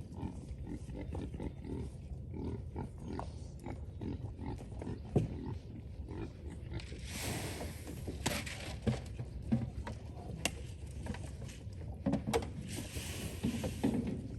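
Berkshire pigs grunting as they are fed. A short rushing hiss comes about seven seconds in and again near the end.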